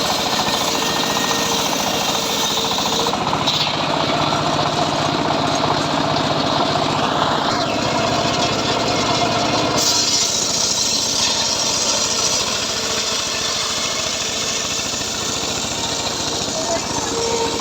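Homemade engine-driven circular saw running with a fast knocking engine beat, its blade cutting teak wood, the sound shifting as the load changes a few times.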